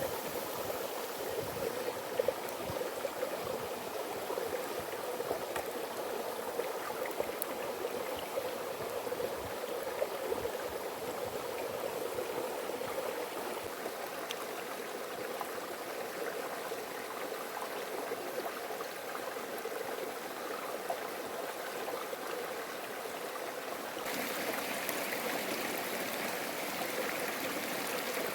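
Steady rush of a stream's running water. About 24 s in it turns abruptly brighter and hissier.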